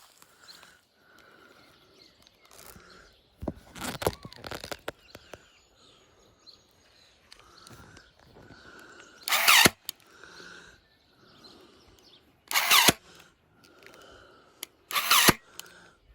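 Rapid BTX140 cordless electric stapler firing staples: three short, sharp shots a few seconds apart in the second half, with a few lighter knocks about four seconds in.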